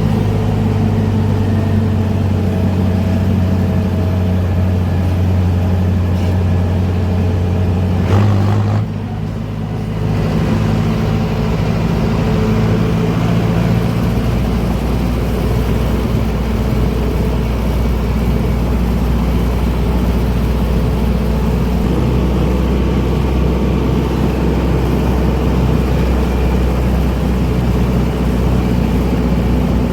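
Heavy diesel engines of sugarcane harvesting machinery running steadily. There is a brief surge about eight seconds in and a short dip right after, and from about halfway a deeper, steadier engine note takes over.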